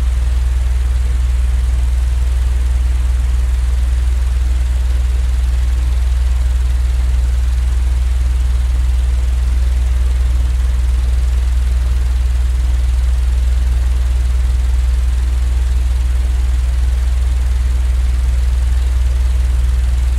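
Continuous sleep-aid noise track: a steady, deep droning rumble heaviest in the bass, with a faint hiss above, unchanging throughout.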